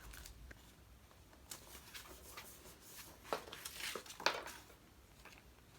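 Faint scattered rustles and light ticks of paper, stickers and washi tape being handled and pressed onto a journal page, with a sharper tick about four seconds in.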